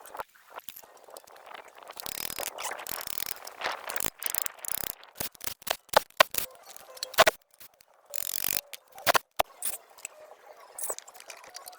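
Hand tools working on metal parts: an irregular run of clicks, taps and scraping, with a few sharp knocks about six and seven seconds in.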